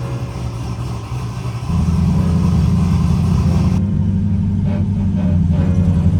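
Turbocharged LS V8 in a Camaro running with a steady low drone, stepping up noticeably louder a little under two seconds in.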